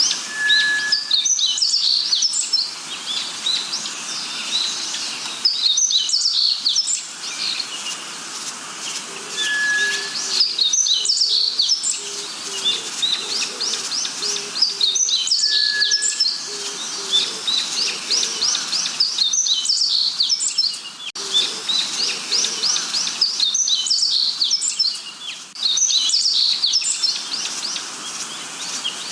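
A chorus of forest birds: dense rapid chirps and trills, with a short steady whistle repeating about every six seconds and a series of low hooting notes in the middle.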